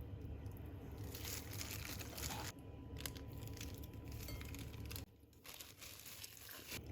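Crinkling and crunching from food being prepared by hand, with a few light clinks. The sound changes abruptly about two and a half seconds in and drops quieter about five seconds in.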